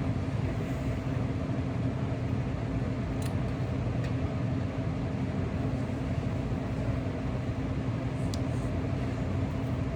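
Steady road and engine noise inside a car cabin, with two faint clicks, one near the start of the second third and one near the end.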